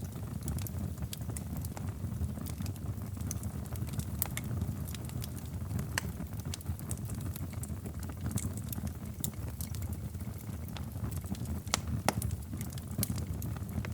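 Wood fire crackling in a fireplace: irregular sharp pops and snaps over a steady low rumble, with a louder snap or two near the end.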